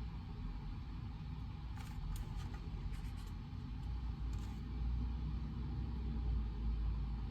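Steady low rumble of study-room background noise, with a few faint brief scratchy sounds about two to three and a half seconds in and once more near four and a half seconds.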